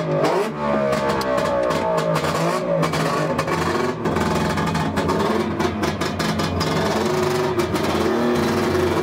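DKW 1000's two-stroke three-cylinder engine running and being revved, heard from inside the cabin; its pitch falls over the first second or two, then it runs fairly steadily.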